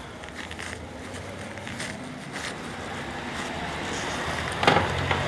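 A motor vehicle's engine running in the street, its low hum growing louder over the last couple of seconds as it draws near. A single sharp knock sounds near the end.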